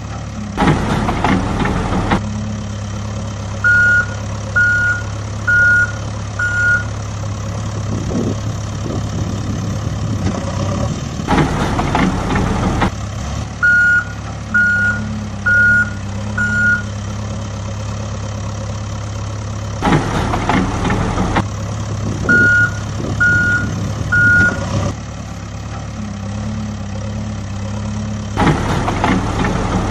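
Heavy truck's diesel engine idling steadily with a reversing alarm beeping in runs of three or four beeps, about one a second. About every eight or nine seconds there is a brief noisy rush lasting a second or so. The whole pattern repeats like a looped sound effect.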